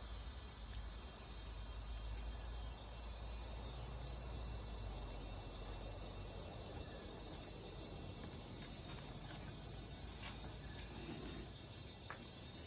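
Steady high-pitched chorus of insects, a continuous trilling drone with no break, over a faint low rumble that fades out about ten seconds in.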